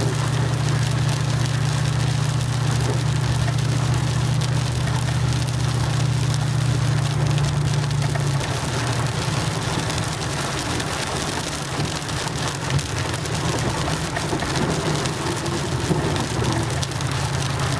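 Water rushing and spraying as a truck drives through a flooded street, its tyres throwing up water in a steady hiss. The engine's low drone runs underneath and eases off about eight seconds in.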